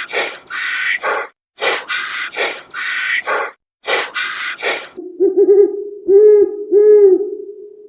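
Harsh, raspy animal calls repeated in quick bursts, then an owl hooting several times in low, arched notes from about five seconds in.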